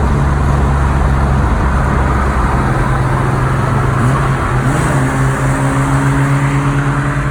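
Car engine running steadily at a held engine speed under road and wind noise, its pitch shifting briefly about four seconds in, then settling again.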